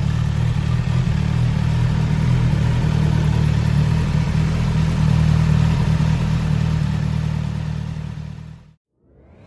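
Suzuki Katana motorcycle engine idling steadily, then fading out near the end.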